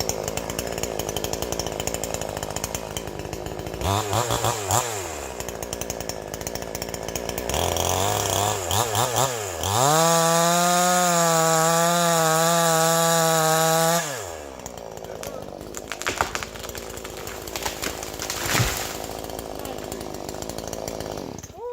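Chainsaw cutting into the base of a tree during felling. The revs rise and fall a few times, hold at a steady high pitch for about four seconds near the middle, then drop back to a lower, uneven running.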